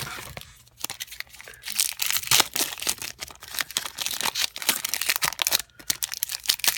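Foil Pokémon booster pack wrapper being torn open and crinkled: a dense run of crackling, with a short pause near the end.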